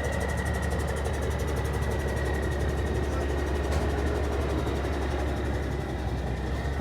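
Vehicle engine running steadily with a low rumble and a faint steady whine.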